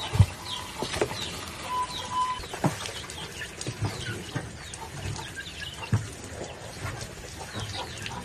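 Chickens, chicks peeping in short falling chirps, with scattered low thumps and knocks. A steady high tone sounds for the first couple of seconds, then stops.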